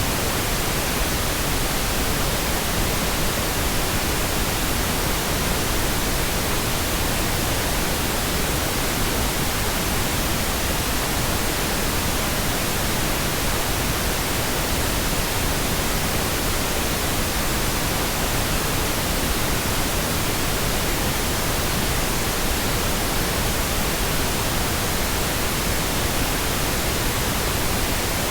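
Pink noise: a steady, even hiss spread across the whole range, fuller in the low end than white noise, and unchanging throughout.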